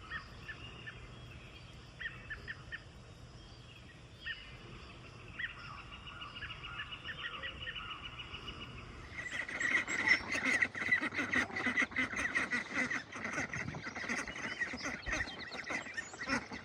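A flock of domestic waterfowl calling: scattered faint calls at first, then a much louder chorus of many birds calling over one another from about nine seconds in.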